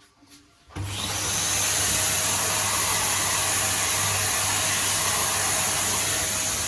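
Vacuum cleaner switched on about a second in and running steadily with a low hum and a high whine, cleaning out drilling dust from freshly re-drilled screw holes.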